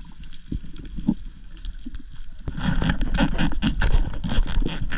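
Underwater noise near a reef wall: a few faint knocks, then from about halfway a loud, rapid crackling and rustling of water and contact against the rock.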